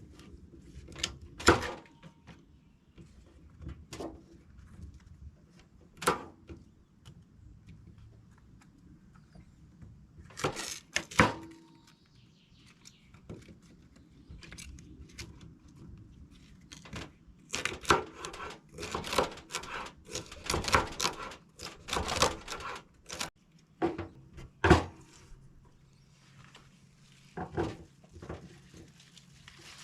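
Irregular wooden knocks and clatter from birdhouse building: boards and tools being set down and handled, with a quick run of knocks in the middle.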